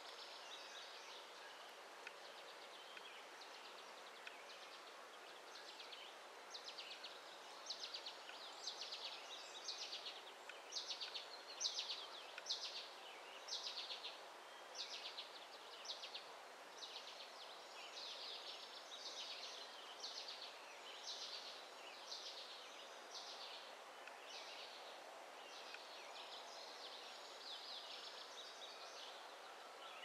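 Small songbird chirping in a long, even series of short high calls, about one a second, loudest in the middle stretch, over a steady outdoor background rush.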